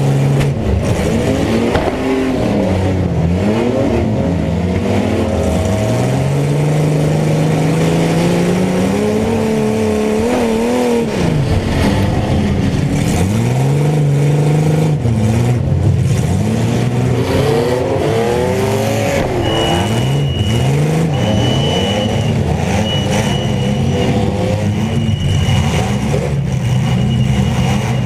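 Several mini truck engines revving at once, their pitches rising and falling and overlapping as the trucks drive hard. Over the last third a high tone sounds in a string of short pulses.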